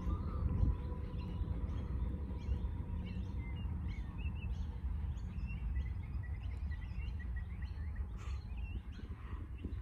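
Small birds chirping repeatedly in short calls over a steady low rumble of outdoor noise.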